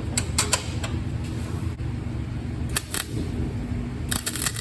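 A generator hums steadily, with a few sharp clicks, and about four seconds in a flux-core welding arc starts crackling, its wire speed set too fast by the welder's judgement.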